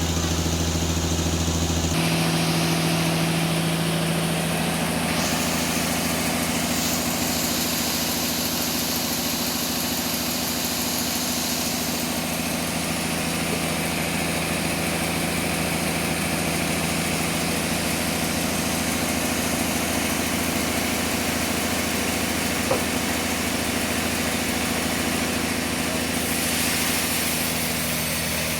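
Sawmill machinery running with a steady engine-like drone. Its tone changes about two seconds in, and a hissing high sound rises over it several times, with one small tick late on.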